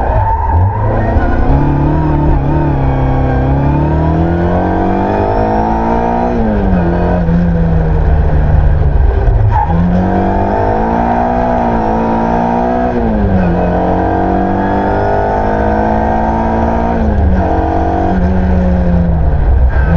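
Ford Escort Mk1 rally car's engine heard from inside the cabin, revving hard at full throttle, climbing in pitch and dropping back several times as it is driven on a sprint course, over a steady road and cabin rumble.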